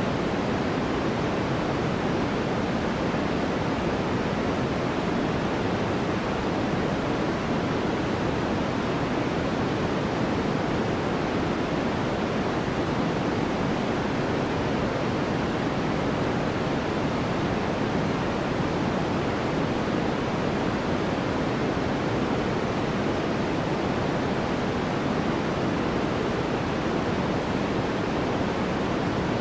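Steady synthesized sleep noise, sold as white noise: an even, unchanging hiss, fuller in the lows and mids than in the highs.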